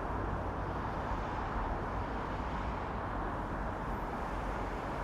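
Steady hum of road traffic, an even wash of noise with no single vehicle standing out.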